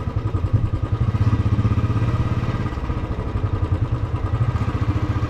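Motorcycle engine running steadily under way, a low rapid pulsing note.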